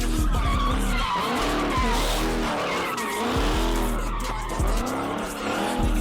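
A car sliding with its tires squealing, the engine revving up and falling back over and over.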